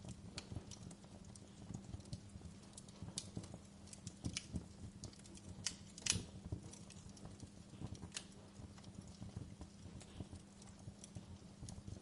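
Wood fire burning in a fireplace, crackling with irregular snaps and pops over a low steady rumble; one pop about six seconds in is louder than the rest.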